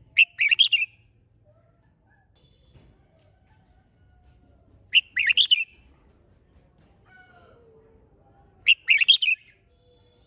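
Red-whiskered bulbul singing short, loud song phrases of several quick notes each, three phrases spaced about four seconds apart.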